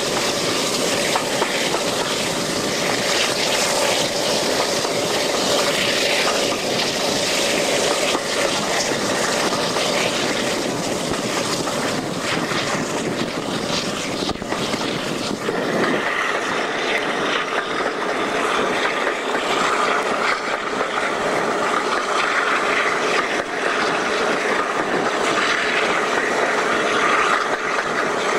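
Diesel-hauled passenger train running at speed, heard at an open carriage window: steady rush of wind and wheels on the rails, with a faint steady engine note. About halfway through the deeper rumble drops away and the sound turns brighter.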